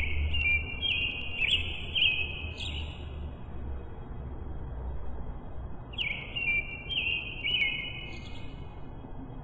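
A songbird singing: a run of clear whistled notes for about three seconds, then a second run about six seconds in, over a faint low rumble.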